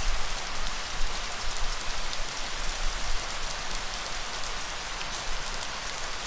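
Steady rain falling: a dense, even hiss of drops with scattered sharper drop ticks.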